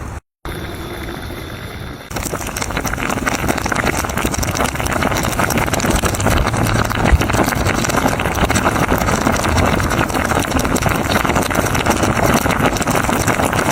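Food sizzling and crackling in a cast-iron Dutch oven over a wood fire, a dense steady frying noise. It cuts out briefly just after the start and grows louder about two seconds in.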